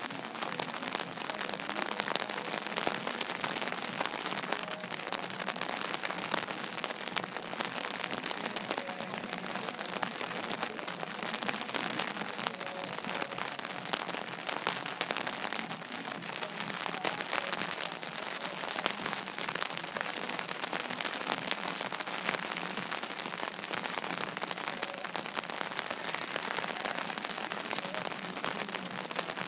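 Rain falling: a steady, dense patter of drops crackling close to the microphone.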